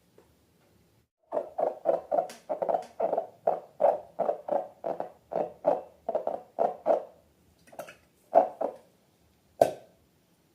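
Slime being squeezed and worked by hand, a quick run of wet squishes at about four a second, then a few more after a pause and one sharper click near the end.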